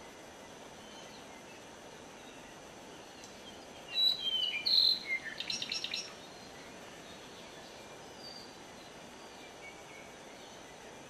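A songbird sings one short phrase of whistled notes that slide down in pitch and end in a quick run of repeated notes, over steady forest background noise; a few faint calls follow later.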